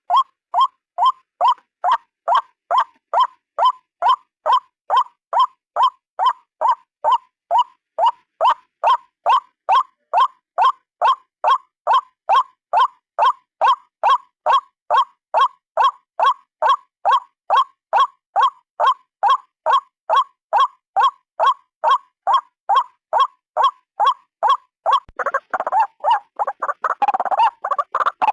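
White-breasted waterhen calling: one harsh note repeated evenly, about two to three times a second. About 25 seconds in, the calls break into a faster, rougher jumble.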